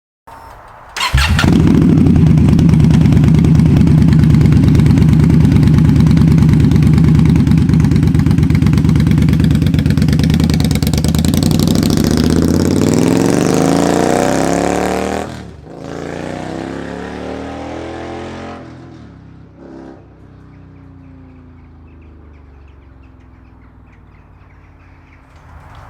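Indian Scout Bobber's V-twin engine through Vance & Hines slash-cut slip-on exhausts. It comes in loud about a second in and holds a steady low throb, then its note slides and shifts as it pulls away. After an abrupt break it is heard again more faintly, fading out and leaving a quiet background.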